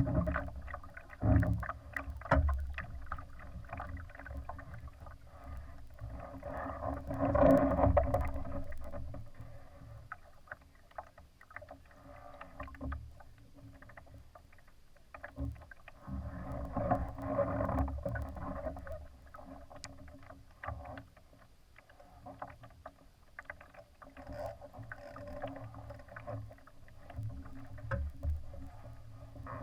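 Water splashing and slapping against the hull of a Laser sailing dinghy under way, in irregular surges with small knocks, loudest about seven to eight seconds in.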